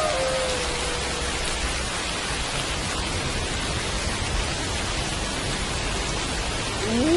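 Steady rain with wolf howls. One howl falls in pitch and fades out in the first second. After a stretch of rain alone, another howl begins near the end, rising to a held note.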